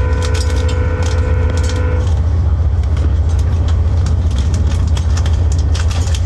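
Passenger train cabin noise while running: a steady low rumble with small rattles and clicks. A steady pitched tone sounds over it for about the first two seconds, then stops.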